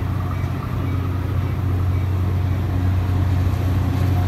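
Caltrain diesel locomotive engine running with a steady low drone.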